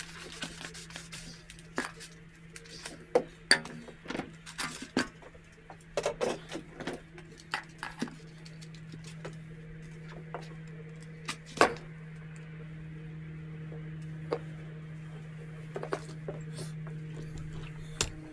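Gutter clearing: irregular clicks, knocks and scrapes of debris and tools, with sharp knocks about three seconds in and again near the middle, over a steady low hum.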